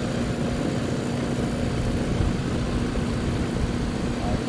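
Outdoor air-conditioner condensing unit running, with its compressor and condenser fan giving a steady mechanical drone and a low hum.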